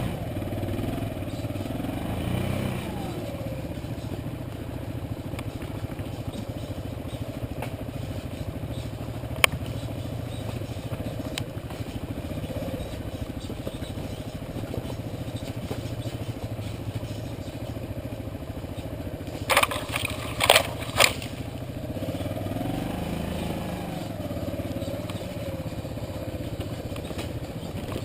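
Motorcycle engine running steadily while riding, its pitch rising and falling twice as the throttle changes. A single sharp click about a third of the way in, and a quick run of three or four loud knocks about two thirds of the way through.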